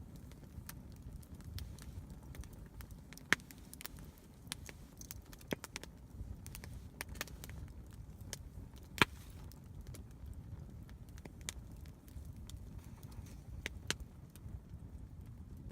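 Wood campfire crackling, with scattered sharp pops and ticks over a low steady rumble. Two louder pops stand out, about three seconds in and about nine seconds in.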